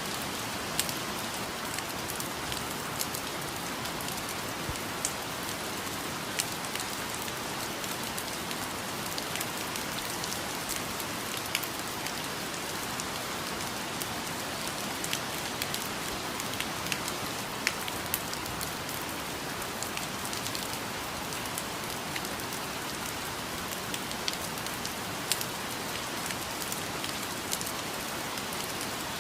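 Steady rain falling on foliage, an even hiss with scattered sharp drips close by.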